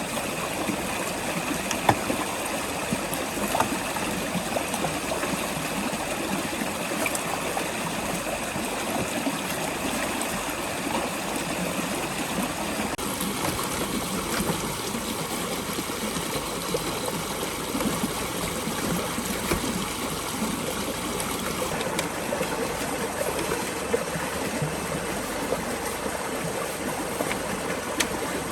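Steady rushing of flowing water, like a stream, with a few small knocks scattered through it.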